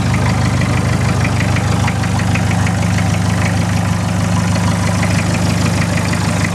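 VW Taro (Toyota Hilux) 2.4-litre four-cylinder diesel idling steadily on a cold engine, straight-piped with no exhaust, with a rapid light diesel clatter over a low hum.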